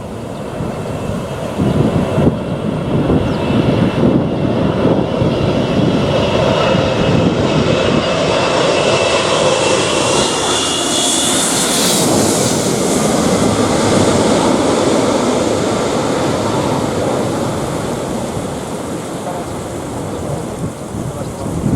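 A jet airliner passes low overhead on landing approach, its engine whine and roar swelling to a peak about twelve seconds in, then fading. Gusty wind buffets the microphone throughout.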